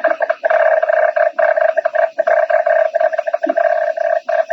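Morse code sent on a radio telegraph key: a steady beep switched on and off in quick, uneven dots and dashes, transmitting a coded reply message.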